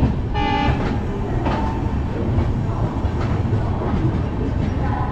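Passenger express train running, heard from aboard a coach: a steady rumble of wheels on the rails. A short horn blast sounds about half a second in.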